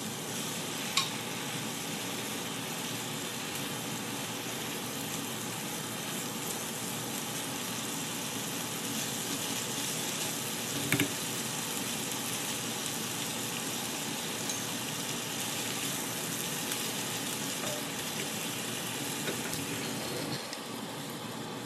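Fettuccine and shrimp sizzling in a hot pan as liquid from a saucepan is poured in and the pasta is tossed with silicone tongs; a steady sizzle with two sharp clicks, about a second in and about eleven seconds in, easing slightly near the end.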